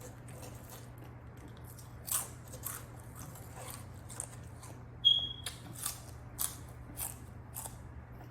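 Close-miked mouth sounds of someone chewing a Subway club sandwich: irregular wet smacks and crunchy clicks, the loudest about five seconds in. A steady low hum runs underneath.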